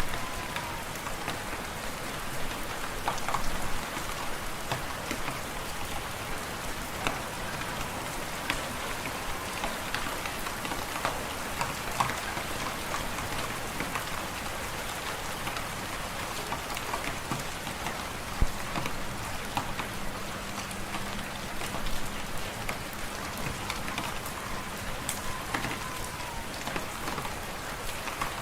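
Wood fire in a fireplace crackling, with scattered sharp pops over a steady hiss.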